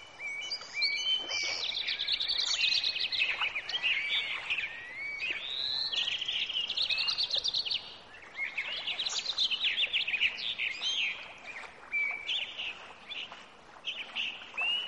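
Birdsong: several birds chirping and trilling in a dense run of quick high calls, thinning out briefly about eight seconds in.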